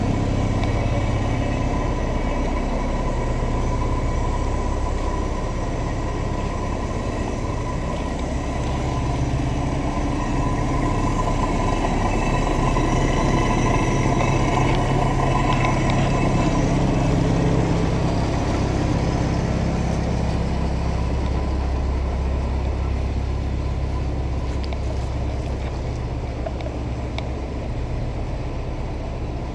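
An engine running steadily at idle with a low hum, a little louder about halfway through.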